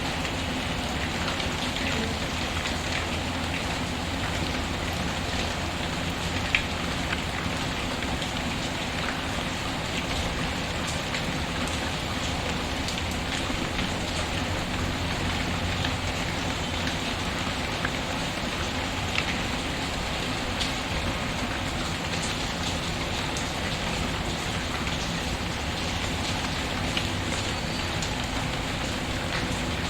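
Steady rain pattering, mixed with a crackling fire, a handful of sharp pops standing out above the rain, the loudest about six and a half seconds in.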